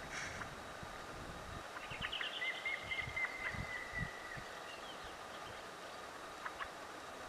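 Outdoor ambience with a small bird singing: a quick run of high chirps about two seconds in, then a thin, wavering high whistle for about two seconds, over a steady background hiss.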